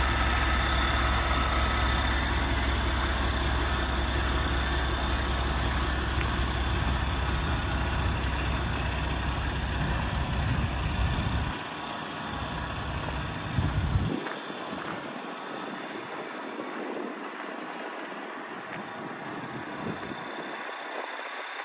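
Heavy truck's Paccar MX-13 diesel engine idling with a steady deep rumble. The low rumble drops off about halfway through, after a short louder burst, leaving a quieter running sound.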